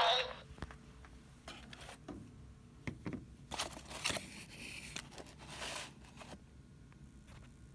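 A toy's electronic song cuts off at the very start, followed by faint scattered clicks, scrapes and short rustles of handling.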